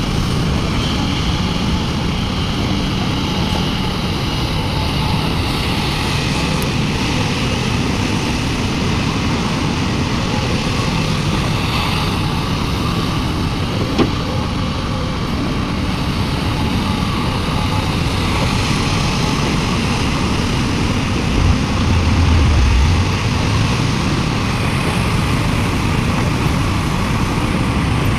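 Heavy diesel machinery of a large excavator loading a dump truck, running steadily. A single sharp knock comes about halfway through, and a brief heavier low rumble a little after two-thirds of the way.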